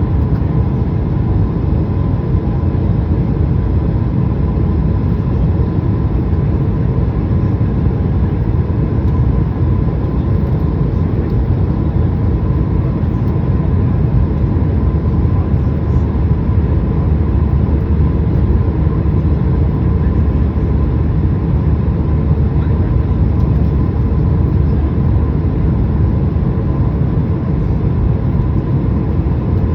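Steady jet airliner cabin noise, engine and airflow rumble with a faint steady whine, heard from inside the passenger cabin.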